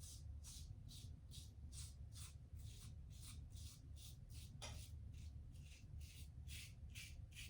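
Safety razor (a Gillette Tech with a 3D printed base plate) scraping through lathered stubble in short, quick strokes, about three a second, faint and regular.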